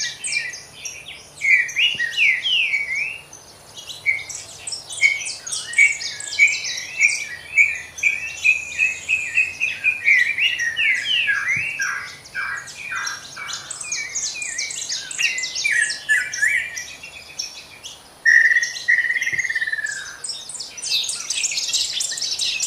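Many birds singing and chirping together in a dense chorus of quick high notes and short sweeping calls, with one longer arched whistle about eighteen seconds in.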